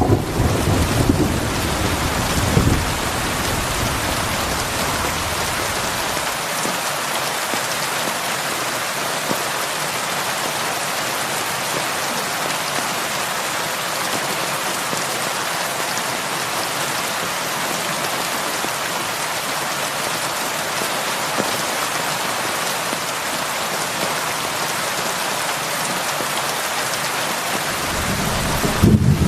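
Steady heavy rain falling on a roof. A low thunder rumble dies away in the first few seconds, and another thunder rumble builds near the end.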